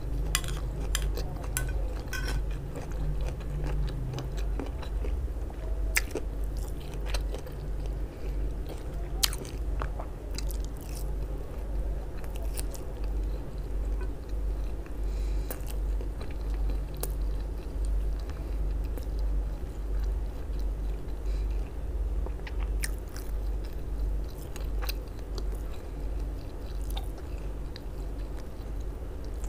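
Close-miked chewing of grilled sausage, with wet mouth sounds, scattered sharp clicks and occasional crunches. A steady low hum runs underneath.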